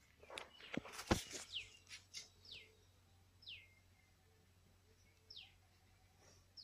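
A bird calling repeatedly, each call one short note sliding down in pitch, every second or two. About a second in, a quick cluster of clicks and knocks is the loudest sound.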